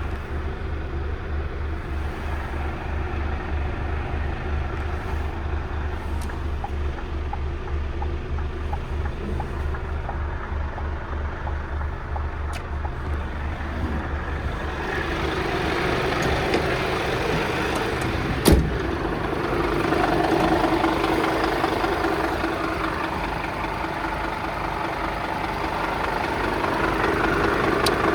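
Scania P250 truck's diesel engine idling with a steady low throb. About halfway through, a louder, broader mechanical noise joins it, with one sharp click a few seconds later.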